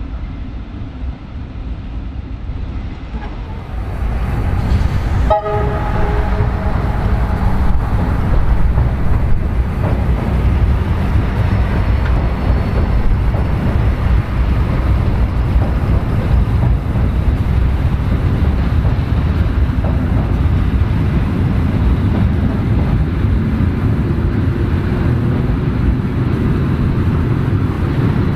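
Tait electric train running over an elevated railway bridge with a steady low rumble, louder from about four seconds in. A train horn gives one short toot a little after five seconds.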